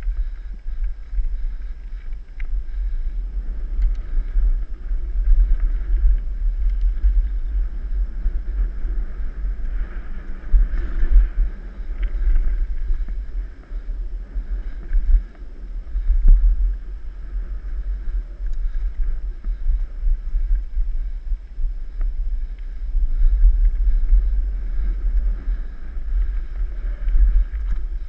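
Wind buffeting the microphone of a camera riding on a moving mountain bike, a heavy low rumble that swells and drops unevenly.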